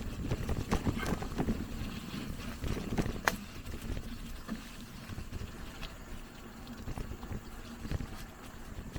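Mountain bike moving over a rutted dirt trail: irregular knocks and clicks from the tyres and frame over a low rumble, with one sharp click about three seconds in.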